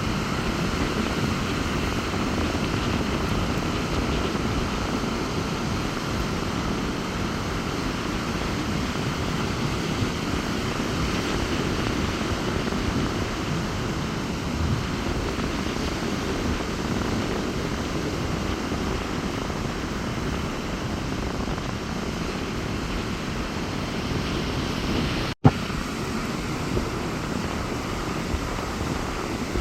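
Rough sea surf breaking continuously with strong wind rumbling on the microphone, a steady rushing noise. The sound cuts out for an instant about 25 seconds in.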